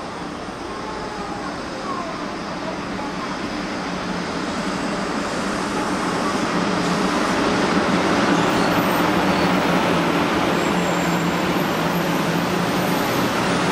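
JR West 500 series Shinkansen train arriving alongside the platform. Its running noise grows steadily louder as the cars come in and pass close by.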